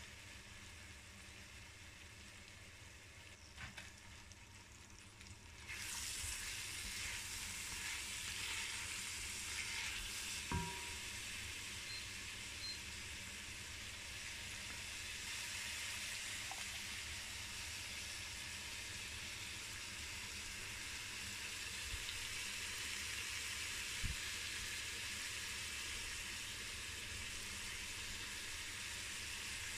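Smoked pork and sliced red onion sizzling as they fry in an enamelled cast-iron pot. The sizzle gets louder about six seconds in, and a few light knocks come from a wooden spatula stirring the pot.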